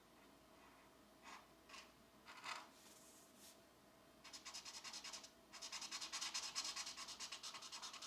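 Pencil colouring on a colouring-book page: a few single short strokes, then rapid back-and-forth shading strokes scratching over the paper for the last four seconds or so.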